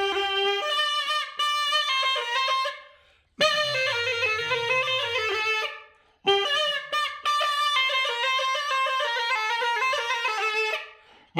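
Iraqi mutbag, a double-pipe reed clarinet, playing a folk melody in three phrases. Each phrase is held without a break and ends in a short pause.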